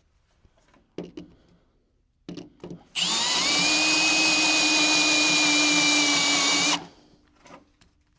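Power drill drilling out a spot weld in car-body sheet steel: a few handling knocks, then the drill runs steadily for about four seconds, its whine climbing slightly as it spins up, and stops suddenly.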